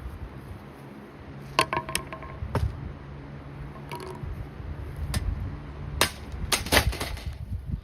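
Holmes box fan running with a low motor hum, while its plastic housing knocks and clatters several times as it tips over and is pushed about; the sharpest knocks come near the end.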